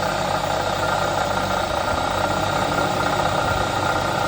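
2009 Chevy Silverado engine idling steadily just after start-up. A bearing in the front belt drive makes an abnormal noise, which the owner traces to a failing water pump.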